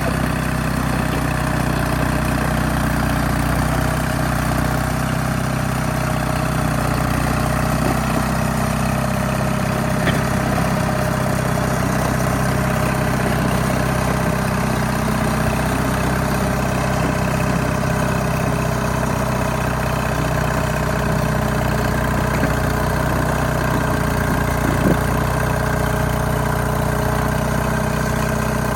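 Allis-Chalmers HD5 bulldozer's GM 2-71 two-stroke diesel engine running steadily.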